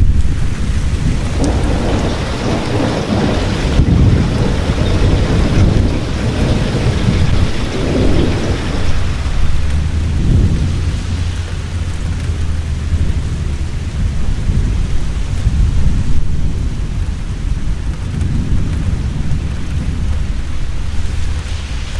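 Heavy rain falling steadily with rolling thunder; the deep rumbling swells in waves over the first half and then eases to a low background rumble under the rain.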